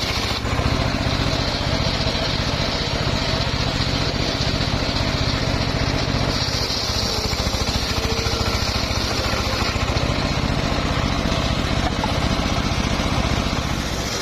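Engine of a homemade circular sawmill rig running steadily, its firing pulses even throughout. A brighter hiss rises over it for about three seconds midway.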